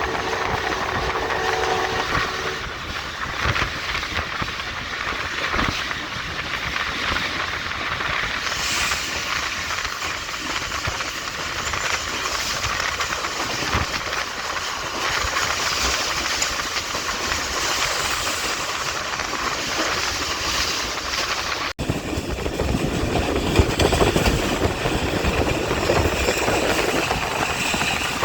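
Passenger express train running at speed, heard from on board: wheels clattering over the rail joints under a steady rushing noise. About 22 seconds in the sound breaks off for an instant, and after that the low rumble is heavier.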